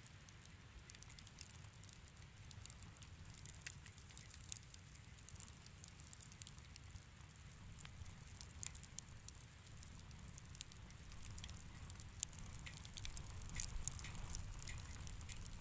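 Wood fire crackling in a fireplace: irregular sharp pops and snaps over a low steady rumble of the flames, the pops coming thicker and louder toward the end, with one sharp snap about twelve seconds in.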